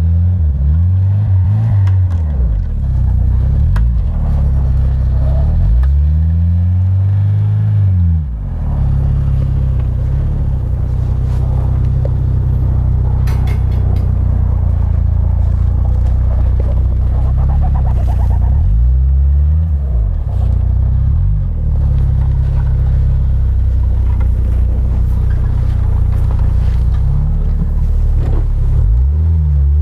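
Suzuki Escudo 4x4's engine running hard under load on a snowy, sandy slope, its revs climbing and dropping back several times as the wheels spin for grip.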